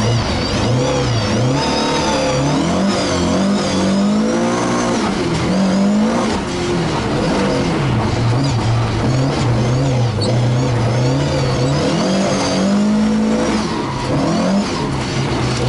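Ford Escort Mk1 rally car's engine heard from inside the cabin, revving hard and repeatedly rising and falling in pitch as the car is driven through corners.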